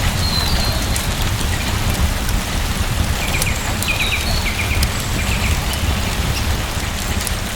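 Steady rain falling, with a few short high chirps about three to five seconds in.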